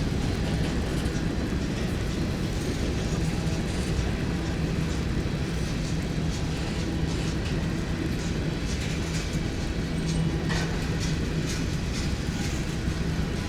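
Train passing close by: a steady rumble of rolling cars, with wheels clicking over the rail joints.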